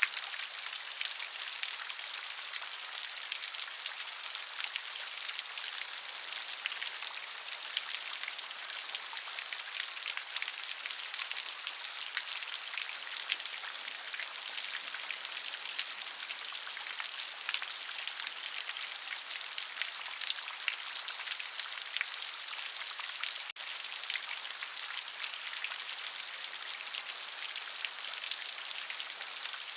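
Steady rainfall, a constant hiss thick with the ticks of individual drops. A split-second dropout breaks it about two-thirds of the way through.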